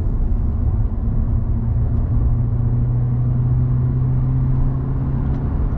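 Steady road and engine noise inside a moving car's cabin at speed: a continuous low drone with a steady hum.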